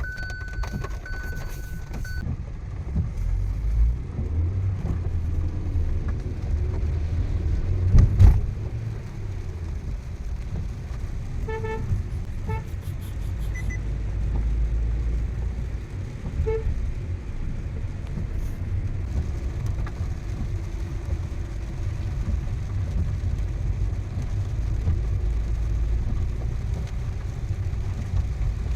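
Car cabin noise while driving: a steady low engine and road rumble, with a loud thump about eight seconds in and a few short car-horn toots later on.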